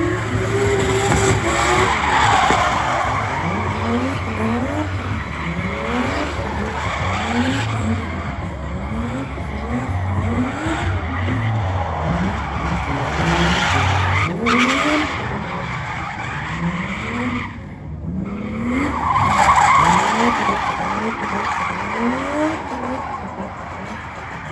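Vehicle doing a burnout: the engine revs up over and over, about once a second, over a continuous tire screech.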